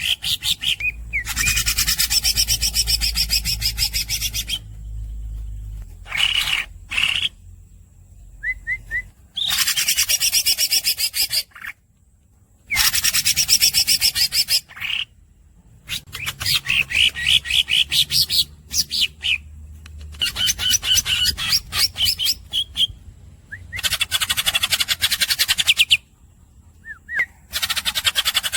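Green leafbird (cucak ijo) singing in long, fast rolling trills of two to three seconds each, repeated about seven times with short squeaky chirps and brief pauses between them.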